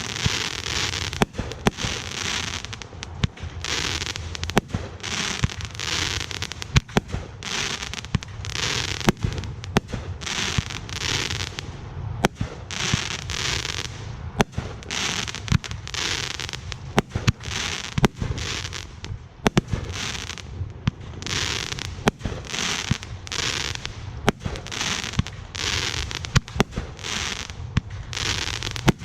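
Aerial fireworks display going off continuously: sharp bangs come in quick succession, several within each second, between stretches of crackling hiss.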